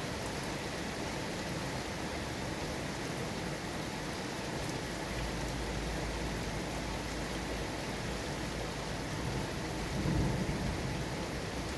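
Steady rain falling, an even hiss of many drops. A low rumble of thunder comes in about halfway and swells briefly near the end.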